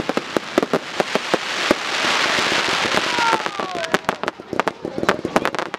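Fireworks firing in quick succession: a rapid, irregular run of bangs and cracks, with a denser hissing spell about two seconds in.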